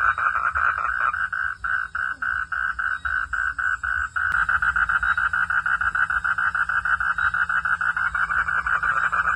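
A frog calling in a fast, steady train of rapid pulses, several a second, with faint high, steady insect trilling behind it. A sharp click comes about four seconds in, and after it the pulses run a little faster and more evenly.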